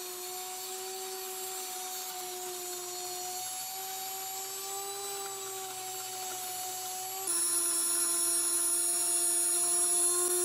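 Blendtec Kitchen Mill, an electric impact grain mill, running at high speed while grinding wheat into flour, with a steady high whine. About seven seconds in, the whine drops a little in pitch and gets louder.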